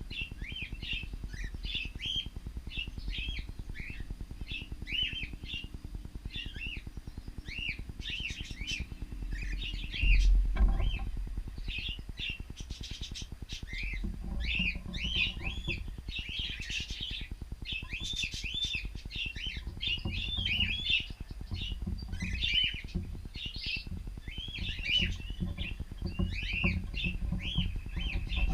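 A flock of cockatiels chirping continually, many short arched chirps overlapping one another. A brief low rumble about ten seconds in is the loudest moment.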